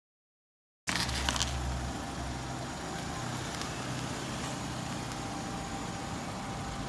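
A car engine idling steadily outdoors, which starts about a second in after dead silence, with a few light clicks soon after it begins.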